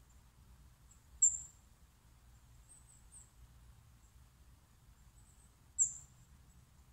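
Small bird giving short, very high-pitched chirps: two loud single chirps, about a second in and near the end, with fainter ones between, over a faint low rumble.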